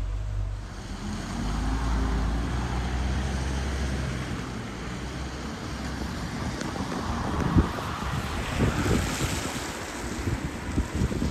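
Street traffic on a wet road: a vehicle's engine hums low at first, then a tyre hiss swells to its loudest about nine seconds in as a vehicle passes. Wind thumps on the microphone near the end.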